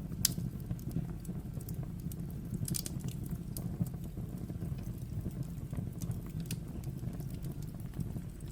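Wood fire burning in a fireplace: a steady low rumble of the flames with scattered crackles and sharp pops, the loudest pop about a quarter second in and a cluster of pops a little under 3 seconds in.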